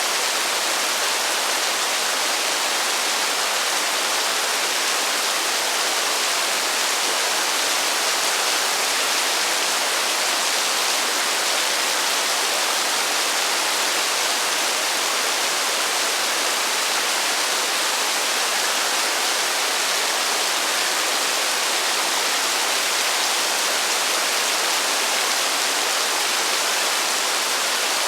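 Heavy rain falling steadily as an even, unchanging hiss, with no thunder.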